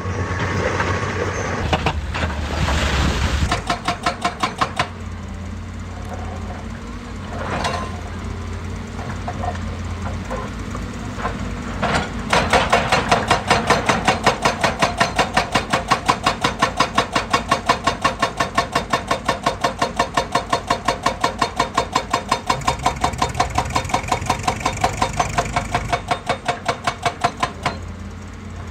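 Excavator engine running under load while a hydraulic rock breaker hammers in fast, even blows, about five a second. There is a short run of blows early on, then a long steady run through most of the second half that stops near the end.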